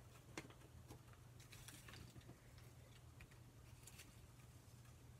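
Near silence: a low steady hum with a few faint, short clicks and light paper rustles from small postage stamps being handled.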